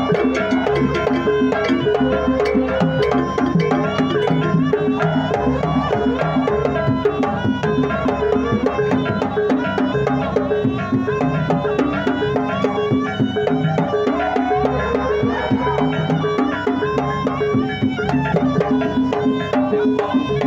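Jaranan pegon dance music playing steadily: drums and struck percussion over a moving melody, with low tones held under it.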